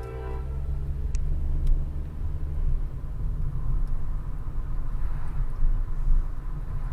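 Car driving in town traffic, heard from inside the cabin: a steady low engine and road rumble, with a brief, slightly falling pitched engine tone right at the start.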